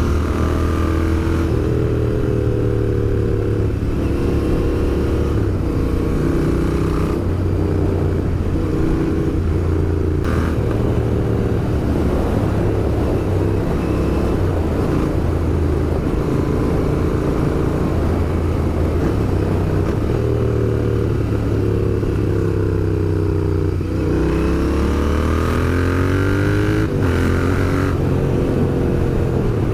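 Royal Enfield Interceptor 650's 648 cc parallel-twin engine and exhaust under way, the pitch climbing and dropping as the rider works the throttle and changes gear, with a sharp drop and a rising rev about 24 seconds in.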